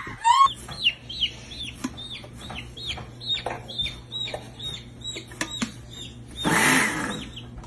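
A baby chick peeping over and over, short high notes that fall in pitch, about three a second. Near the end there is a brief rustle.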